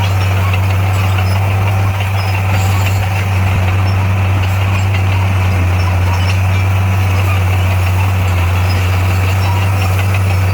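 Heavy construction machine's diesel engine running steadily with a deep, even hum.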